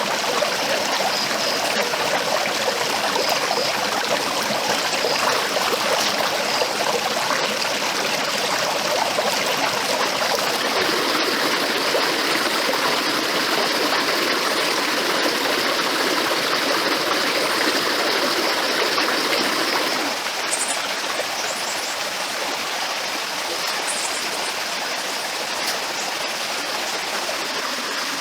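Stream water flowing steadily, a constant rushing, which turns a little quieter and thinner about twenty seconds in.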